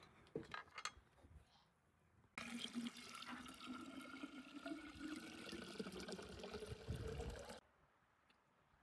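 Liquid being poured into a container for about five seconds, starting a couple of seconds in and stopping suddenly near the end, with a tone that slowly rises in pitch as it pours.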